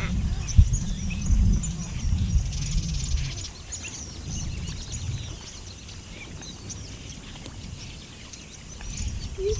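Birds chirping with many short, scattered calls, over a low rumble that fades after the first few seconds.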